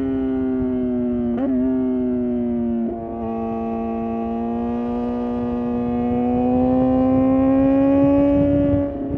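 Suzuki GSX-R750's inline-four engine pulling at high revs with a steady, pitched exhaust note. The note breaks briefly and steps down slightly twice in the first three seconds, then rises slowly through the middle and drops back near the end.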